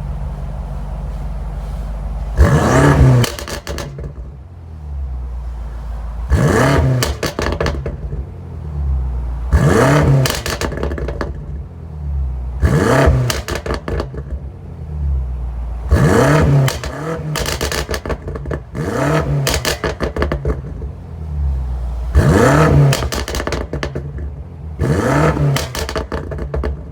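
2019 BMW M5 Competition's twin-turbo V8 being blipped repeatedly from idle. It makes about eight short revs, each rising quickly and dropping back, followed by a burst of crackles from the exhaust before it settles to idle again.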